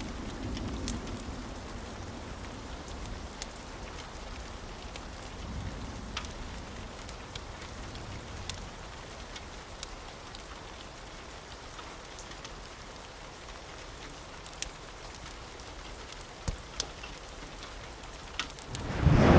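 Steady rain with scattered sharp ticks, under a low rumble of thunder that dies away over the first few seconds. Just before the end a sudden loud rumble of thunder begins.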